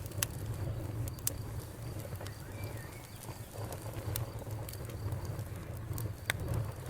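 Campfire crackling: a low steady rumble of burning wood with sharp, irregular pops and snaps, the loudest about six seconds in. A faint steady high tone runs beneath it.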